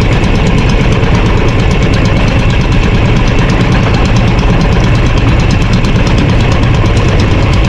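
Outrigger fishing boat's (bangka) engine running loud and steady, with a fast, even firing beat, while the boat is taken out for a speed test.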